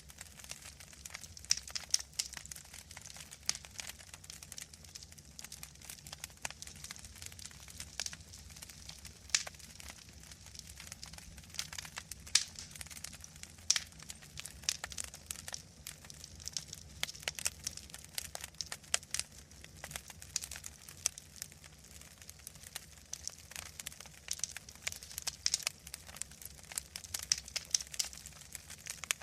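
Wood fire burning in a fireplace, crackling and popping irregularly over a low steady rumble.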